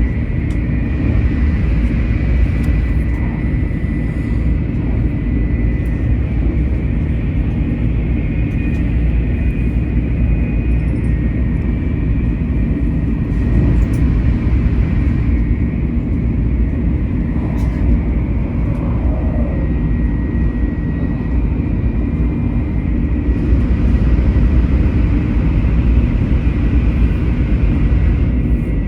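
Taiwan High Speed Rail bullet train running at speed: a steady low rumble with a thin, steady high whine over it.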